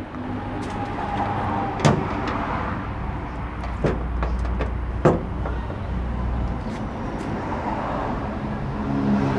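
Low steady rumble of a car engine running, heaviest about halfway through, with a few sharp clicks from a plastic valve being handled against sheet metal.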